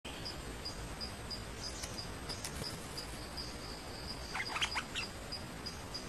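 An insect chirping steadily and high, about three chirps a second, while a bird gives a short burst of quick calls a little over four seconds in.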